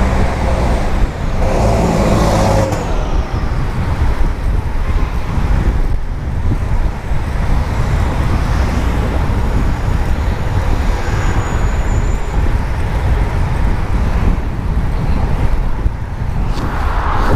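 City road traffic heard from a moving bicycle: cars and other motor vehicles running close by over a steady low rumble.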